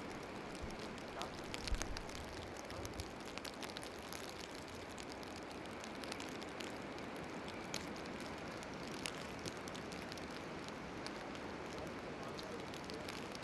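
Falling snow pattering lightly: a faint steady hiss with many small scattered ticks.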